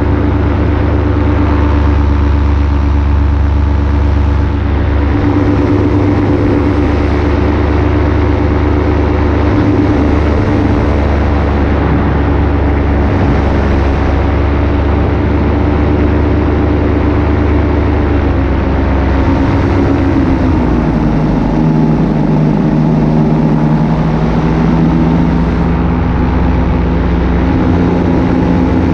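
Paramotor engine and propeller running steadily in flight. Its pitch drops about two-thirds of the way through as the engine slows, then holds steady at the lower speed.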